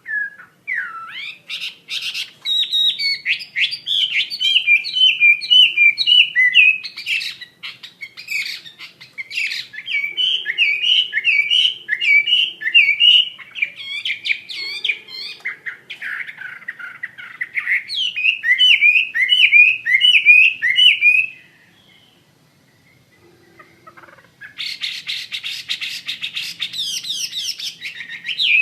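A Chinese hwamei singing a loud, rapid, varied song in long phrases of quick whistled notes. It pauses for a few seconds about three quarters of the way through, then comes back with a fast, dense trill near the end.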